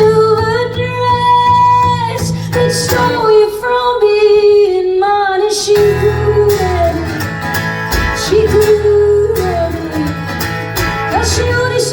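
Live band performing a song: a female singer holds long, wavering notes that glide between pitches, over acoustic guitar and a steady bass line.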